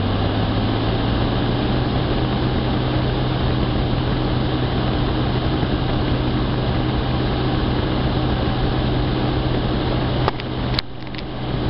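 Electric cooling fan running steadily at full speed on full PWM after its soft start: a steady hum with a rush of air. About ten seconds in there are a few sharp clicks and the level dips briefly.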